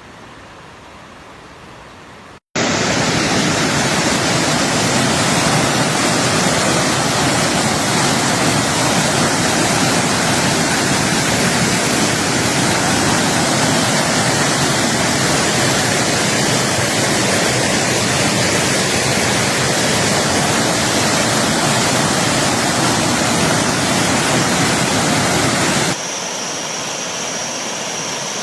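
Loud, steady roar of floodwater pouring through a waterfall swollen by a flash flood. It starts abruptly about two and a half seconds in, after a quieter hiss, and drops to a quieter rush near the end.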